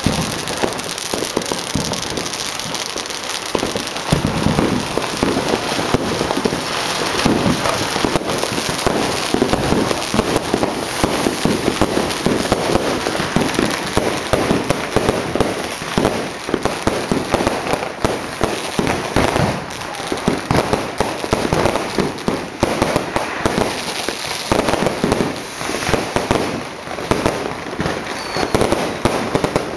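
Dense, nonstop popping and crackling of many firecrackers and fireworks going off at once, the bangs overlapping into one continuous barrage.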